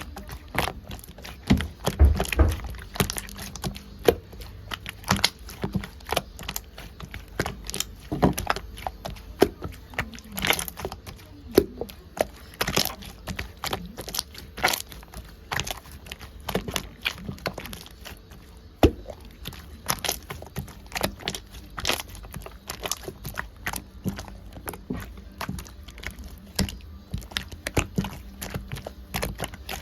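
Slime being squished and pressed by hand, giving a stream of irregular sharp clicks, pops and crackles.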